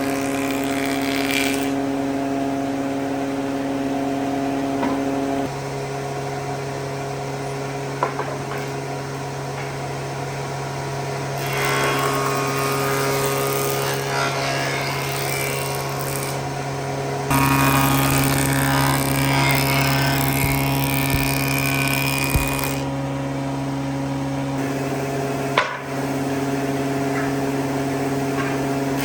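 Power tool motor running steadily with an even hum, growing louder and harsher for a few seconds at a time as the tool is worked, with a few sharp clicks.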